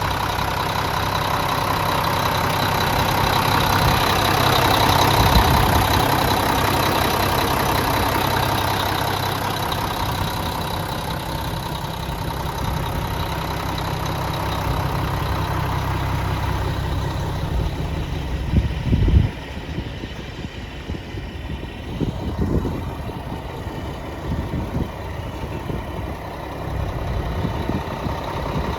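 Mack diesel engine of a 2000 Mack CL713 truck idling steadily. About two-thirds of the way through its steady note drops away, with a loud thump, and the rest is quieter with scattered low bumps.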